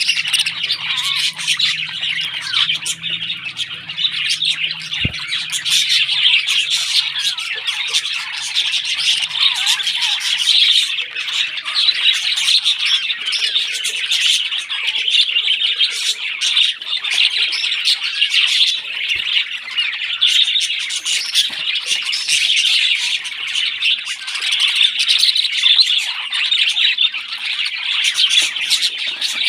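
Parrots squawking and chirping in a continuous, dense chorus: the begging calls of chicks being fed. A single sharp click sounds about five seconds in.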